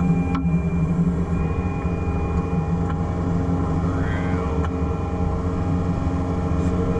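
Excavator diesel engine running steadily, with a few sharp clicks and a short whine that rises and falls about four seconds in.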